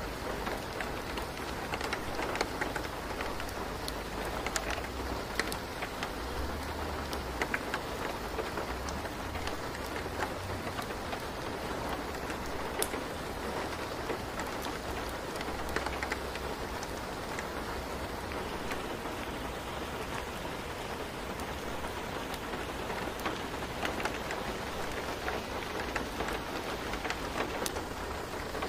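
Steady rain falling, a dense even hiss with many small drop ticks, and a low rumble coming and going underneath.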